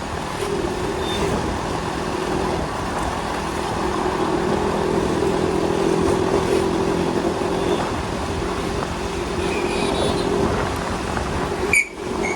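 Motorcycle on the move: a steady engine hum under wind and road noise. Just before the end there is a brief loud knock and the sound dips for a moment.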